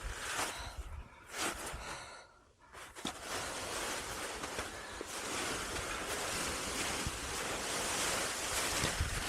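Wind rushing over the microphone: a few short scuffs, a brief lull, then a steady rushing noise from about three seconds in.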